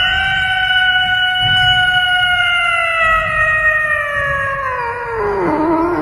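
A dog howling: one long, held howl that sinks in pitch near the end.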